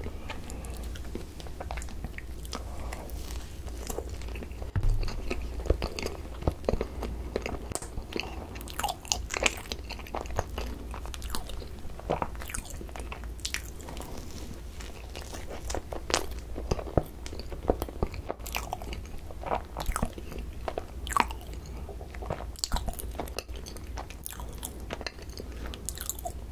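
Close-miked biting and chewing of a soft cream-filled bun, with many small sharp clicks over a steady low hum.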